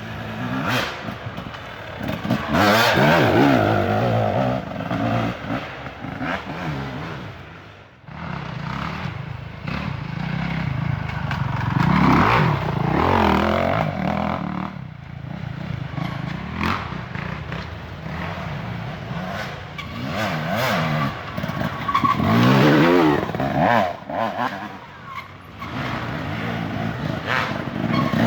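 Dirt bike engines revving hard off-road, the engine pitch rising and falling in several loud surges with quieter stretches between.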